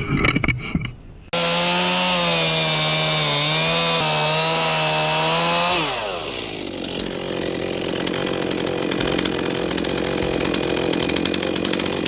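Two-stroke chainsaw running at high revs, cutting in suddenly with a steady, wavering engine note. About halfway through, the pitch falls and a rougher, noisier sound takes over as the saw works in the wood.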